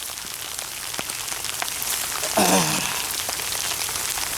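Steady rain falling, with many small drops ticking on nearby surfaces. A brief voice sound cuts in about two and a half seconds in.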